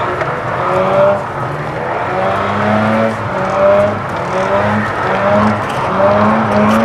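Mazda RX-8's rotary engine revving hard in repeated pulls, its pitch climbing and dropping back about once a second, as the car is driven to drift.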